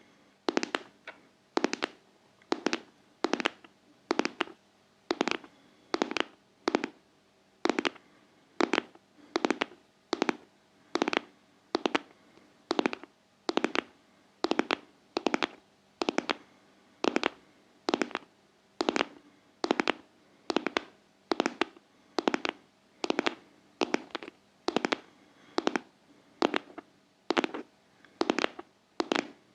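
Steady, rhythmic ASMR tapping: crisp taps about one and a half a second, many of them in quick pairs, over a faint steady hum.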